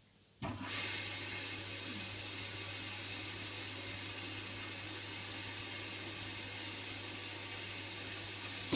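Hotpoint washing machine starting up its next stage after a quiet spell: water rushing through the machine with a steady low hum, coming in abruptly about half a second in and holding steady.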